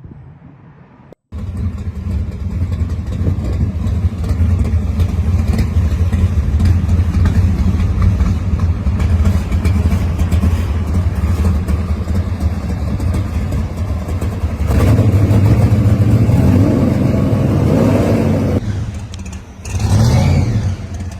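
A hot-rod muscle car's loud engine and exhaust, starting abruptly about a second in with a low, steady rumble. About two-thirds of the way through it revs up and down, dips briefly, then comes back with two short bursts of revs near the end.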